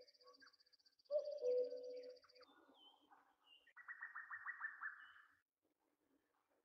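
Birds calling: a steady high trill over low repeated notes for the first two and a half seconds, then a few short chirps and a fast pulsed trill of about six notes a second, dying away about five and a half seconds in.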